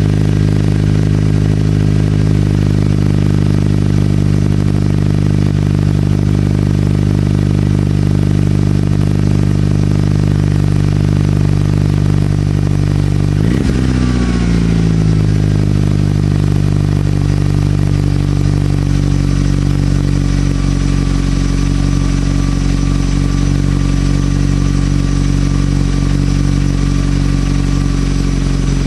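Mitsubishi Lancer Evolution VIII MR's turbocharged 4G63 inline-four idling steadily through a Miltek exhaust. About halfway through there is one quick rev blip that drops straight back to idle.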